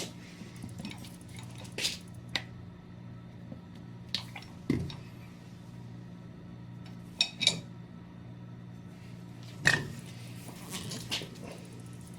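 Scattered metal clinks and clicks of tooling being handled while a machine is set up for tapping, over a steady low hum.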